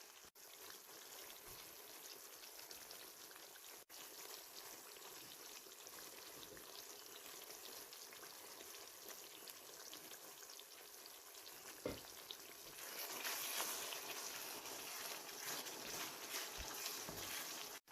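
Spice paste cooked down until the oil has risen, sizzling in a pan as chicken pieces go in. There is a single knock about twelve seconds in, and the sizzle is louder from about thirteen seconds on.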